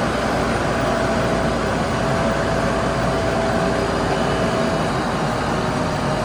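Backhoe loader's diesel engine running steadily under work, with a steady whine over the engine noise.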